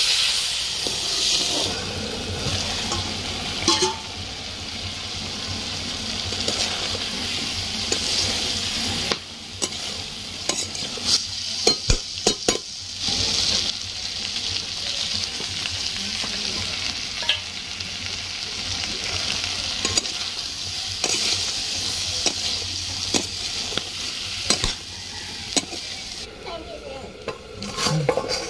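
Potatoes and dry fish sizzling in oil in a steel kadhai while a steel spatula scrapes and stirs. A run of sharp clinks comes about ten to thirteen seconds in, and the sizzle dulls near the end as a steel lid covers the pan.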